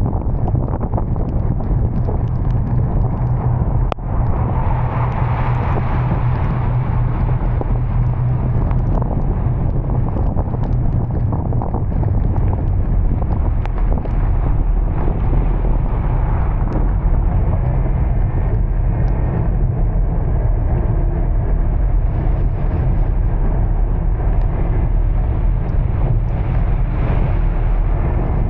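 Steady low rumble of a vehicle driving through heavy rain, with an even hiss of rain and road spray and scattered small ticks.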